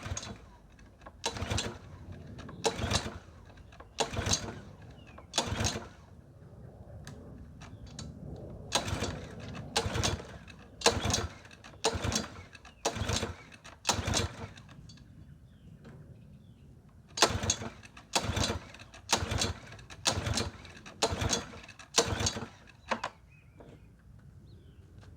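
A walk-behind mower's small engine being pull-started by its recoil starter: about seventeen short cranking pulls roughly a second apart, in three runs with pauses between. The engine turns over on each pull but does not catch and run.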